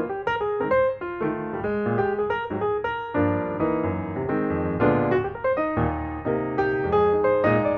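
Background piano music: a melody of quick single notes over chords, which fill out with a fuller low end about three seconds in.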